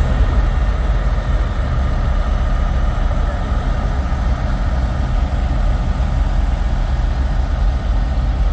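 Semi truck diesel engine idling steadily, a low rumble.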